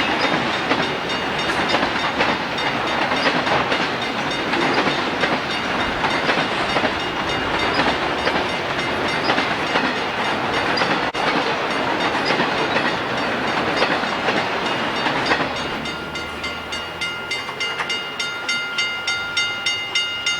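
Freight train cars rolling past, a dense rattling rumble with a constant run of wheel clicks over the rail joints. About fifteen seconds in the train noise drops away and a bell is left ringing, about two strikes a second.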